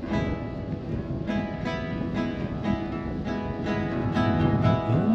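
Acoustic guitar strummed in a steady rhythm, about three strums a second, playing the introduction to a Croatian love song.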